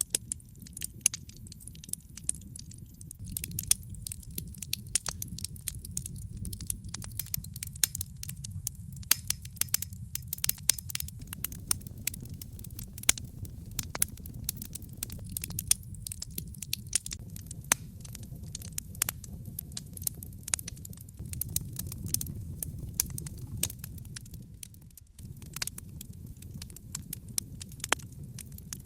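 Wood fire of burning logs in a fireplace crackling, with frequent irregular sharp pops and snaps over a steady low rumble of the flames.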